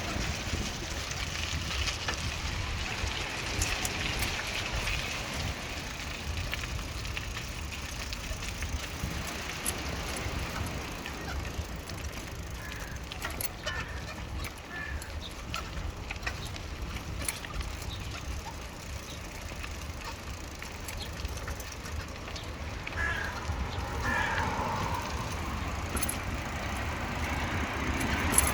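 Riding a bicycle: a steady low rumble of wind on the microphone and tyre noise on the pavement, with scattered small clicks and rattles.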